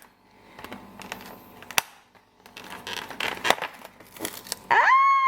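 Cardboard door of a chocolate advent calendar being torn open and the chocolate's foil wrapper crinkling, with scattered small clicks and rustles. Near the end a loud, high-pitched held squeal begins.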